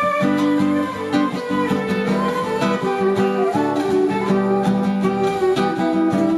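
Music led by plucked, guitar-like strings, with quick, closely spaced notes over sustained low tones.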